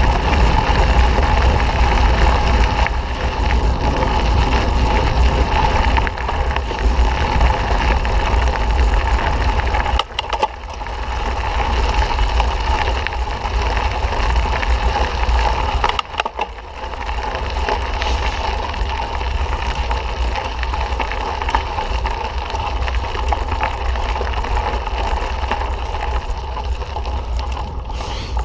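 Mountain bike ride noise: wind rumbling on the camera microphone and tyres crunching over a dirt trail. It runs loud and steady, easing briefly twice, about a third of the way in and just past halfway.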